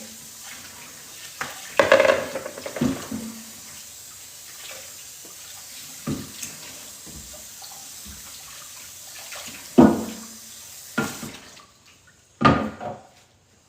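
Kitchen tap running into a sink while pots and dishes clatter against each other now and then. The water shuts off near the end, and one more clatter follows.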